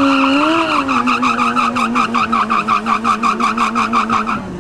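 Sport motorcycle engine held at high revs in a standing burnout, the rear tyre squealing on the tarmac, with a rapid pulsing of about five beats a second. It cuts off abruptly near the end.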